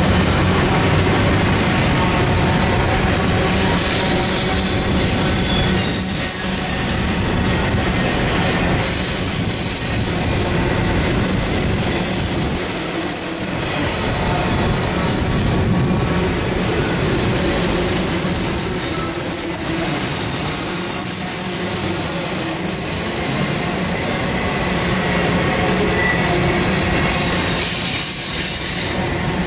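CSX intermodal freight train's cars rolling past: a steady rumble of steel wheels on the rails, with short high-pitched wheel squeals coming and going.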